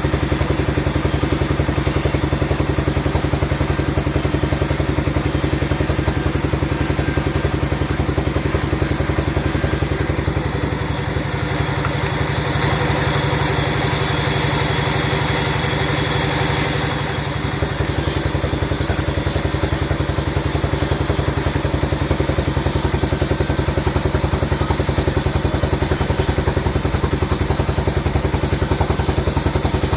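Sawmill machinery running steadily with a fast, even engine-like pulse. From about ten seconds in until about seventeen seconds, the sound changes: the low pulse drops away and a hissing band rises, before the steady running returns.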